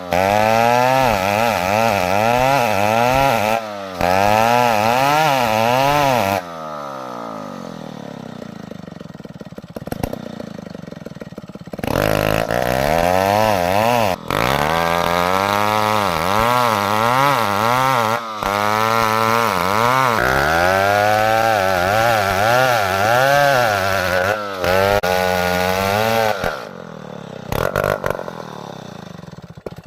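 Two-stroke chainsaw cutting wood, its engine pitch rising and falling in a steady rhythm as the load comes and goes. From about 6 to 12 seconds in it drops back to a quieter, steadier run before cutting hard again, with a few sudden short breaks. It dies away near the end.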